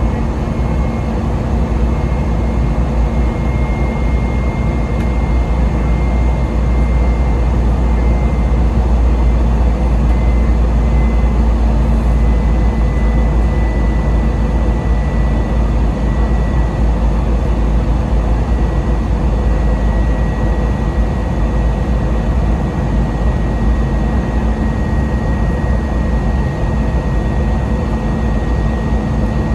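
Airbus A320-200 cabin noise as heard by a passenger after takeoff: the jet engines and airflow make a loud, steady low rumble. Above it a thin high engine tone slowly falls in pitch.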